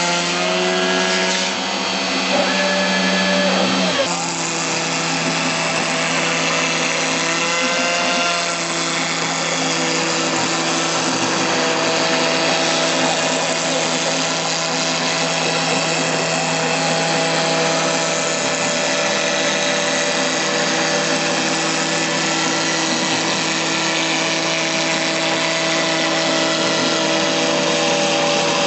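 CNC router milling acrylic sheet with a 6 mm carbide end mill, the spindle running steadily at 15,000 rpm under a continuous cutting hiss. Motor tones shift in pitch as the machine moves along its path, and one low tone cuts off about four seconds in.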